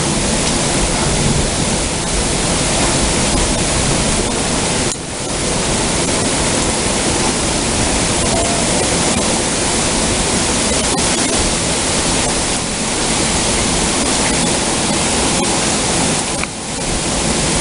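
Heavy thunderstorm rain pouring down in a dense, steady hiss, briefly easing twice.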